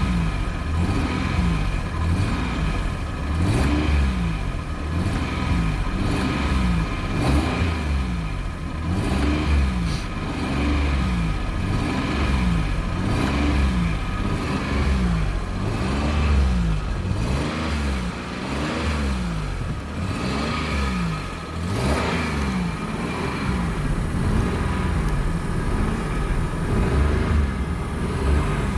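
Car engine revved over and over by pumping the accelerator pedal, its pitch rising and falling about once every second and a half.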